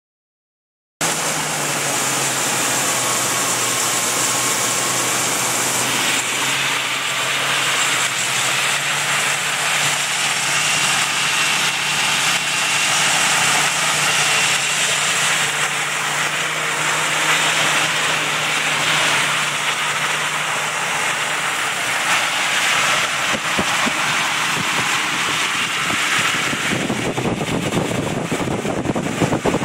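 1964 Cadillac's 429 cubic-inch V8 idling steadily, heard from over the open engine bay.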